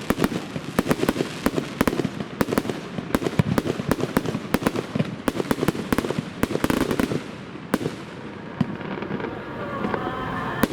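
Fireworks exploding in a rapid barrage of sharp bangs and crackles, thinning out after about eight seconds.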